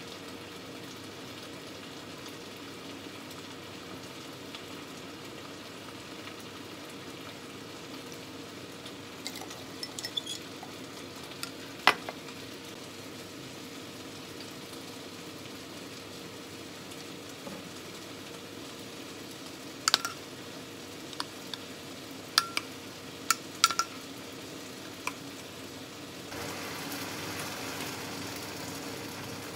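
Chicken and vegetables sizzling steadily in a frying pan on a gas stove, with a few sharp clinks of a metal spoon against a glass dish and bottles. Near the end the sizzle gets louder and brighter.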